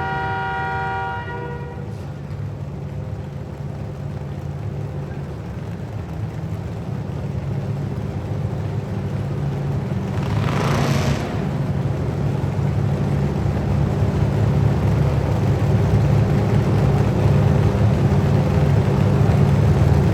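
A horn sounds briefly at the start, then a truck's engine drones steadily, growing gradually louder, with a short rush of noise about ten seconds in.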